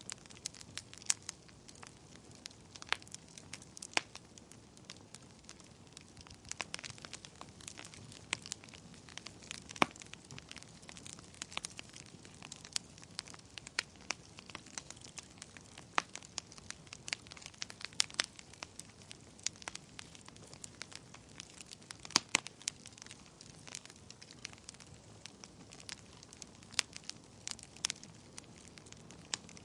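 Wood fire burning in a fireplace, crackling with frequent sharp, irregular pops over a low steady hiss.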